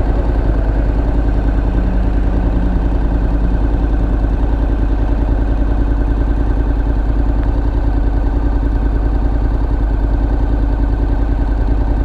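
Honda NC700X motorcycle's parallel-twin engine idling steadily, with no revving.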